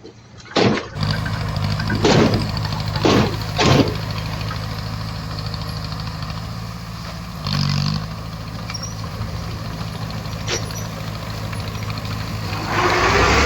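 Heavy earthmoving machine's diesel engine running steadily, with a few sharp knocks in the first four seconds. The sound grows louder and noisier near the end.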